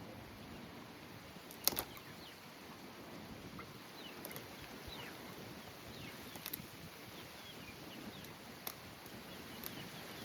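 Honeybees buzzing steadily around an opened hive, with a few sharp clicks, the loudest about two seconds in. Short falling bird chirps come and go in the background.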